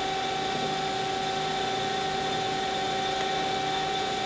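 Hydraulic power unit of a Do-All CNC vertical band saw running with a steady whine, several constant tones held without change.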